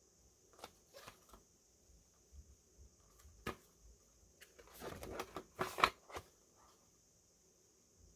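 Hands handling boxed merchandise items: scattered light taps and rustles, with a denser flurry of rustling about five seconds in that ends in a sharp click.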